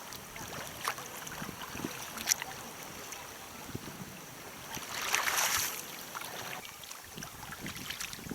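Kayak paddle splashing in moving river water, with short sharp splashes about one and two seconds in and a longer rush of water about five seconds in.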